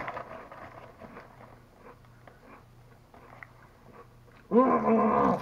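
Crunching and chewing of thin, crisp Lay's potato chips, with light crackles of the chip bag, as a run of small irregular clicks. Near the end a short, loud voiced sound cuts in for about a second.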